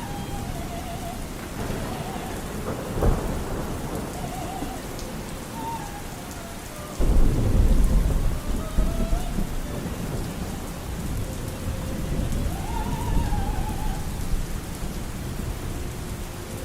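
Steady heavy rain with thunder: a short crack about three seconds in, then a sudden loud clap about seven seconds in that rumbles away over a couple of seconds.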